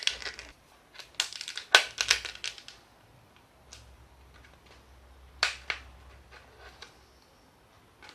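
Cardboard being cut, a few quick runs of crunching snips with pauses between.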